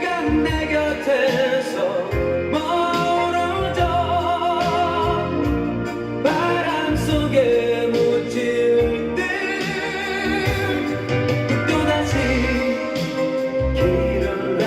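A late-1980s Korean pop ballad playing: a sung melody with vibrato over a band with bass and drums.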